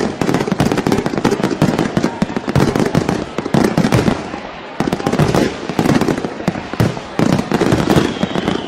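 Fireworks display: a dense, continuous run of bangs and crackling reports in quick succession, with a high whistle starting near the end.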